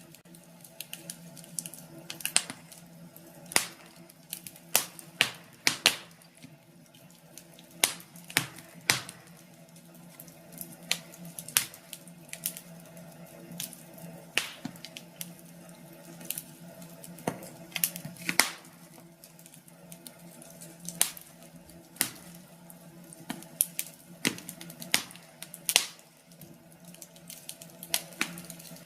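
Wood fire in a fireplace crackling, with irregular sharp snaps and pops, a few a second, over a low steady hum.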